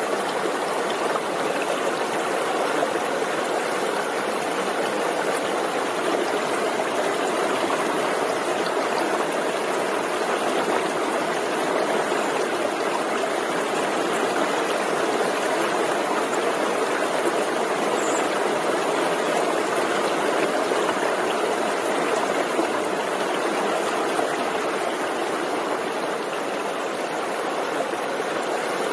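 A forest stream flowing over rocks: a steady rush of water with a trickling, gurgling texture that stays even throughout.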